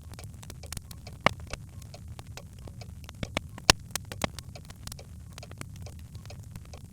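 Birch logs burning in a fireplace, crackling: irregular sharp pops and snaps over a low, steady rumble of the fire. The loudest pops come about a second in and again past the middle.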